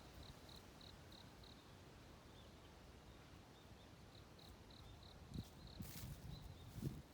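Faint dawn outdoor ambience with two runs of short, evenly spaced high chirps, about three a second. A few low thumps and a click come near the end.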